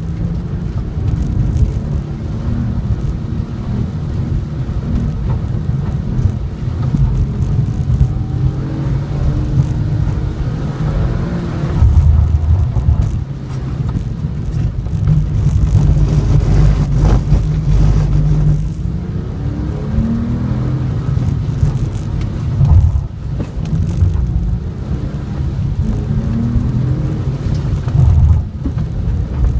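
A car's engine revving up and lifting off again and again as it is driven hard through an autocross course on wet pavement, the pitch rising and falling many times. A steady hiss of rain and road spray runs underneath.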